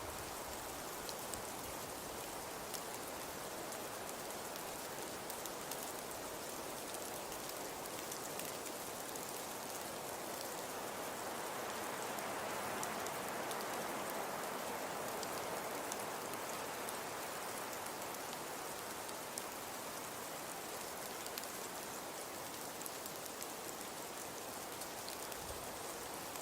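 Fireplace crackling: a steady hiss with scattered small sharp pops, swelling a little about halfway through.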